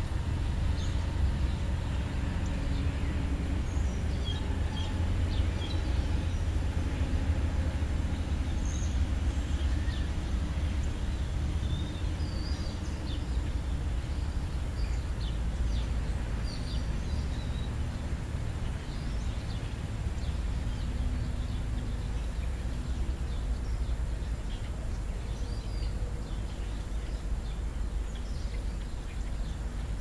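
Steady low outdoor rumble with scattered short, high chirps of small birds calling nearby, thickest through the first half.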